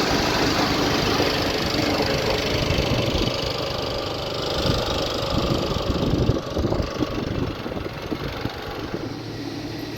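Tractor engine running steadily, a little quieter after about six and a half seconds.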